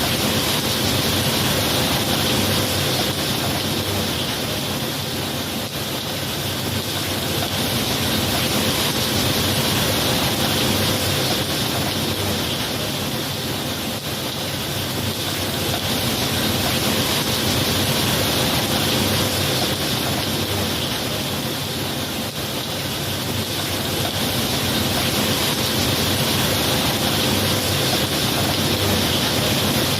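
Steady heavy rainfall, a dense hiss that swells and eases gently every several seconds.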